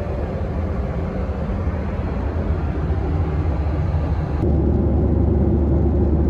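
Steady engine and airflow rumble inside the cabin of a Boeing 737-700 airliner. About four and a half seconds in it shifts abruptly to a duller, heavier low hum.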